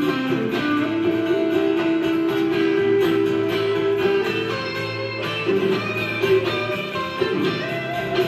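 Guitars playing an instrumental break in a country-rock song: a strummed rhythm under a melodic guitar line, with no singing.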